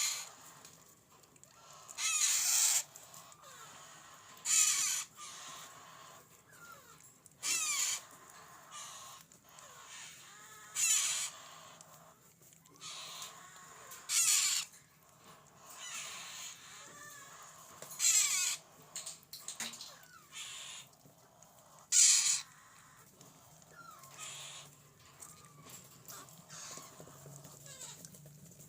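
Baby parrot chick giving harsh, screechy calls over and over, about seven loud ones spaced a few seconds apart with fainter calls between.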